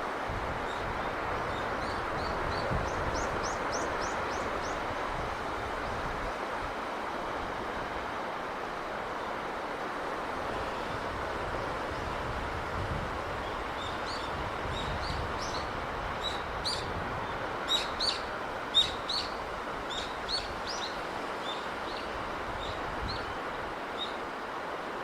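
Steady rushing of sea and breeze, with small birds chirping over it: a quick run of high chirps about three seconds in, and a longer spell of sharp chirps from about the middle to near the end.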